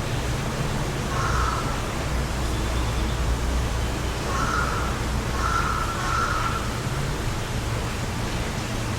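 Wind blowing steadily across the microphone, a low rumble under an even hiss. A bird calls four times over it, in the first two thirds.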